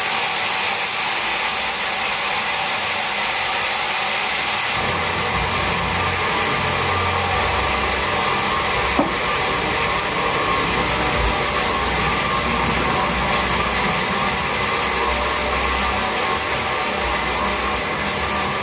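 Sawmill saw running steadily with a high whine, a deeper rumble joining about five seconds in, and a single sharp click near the middle.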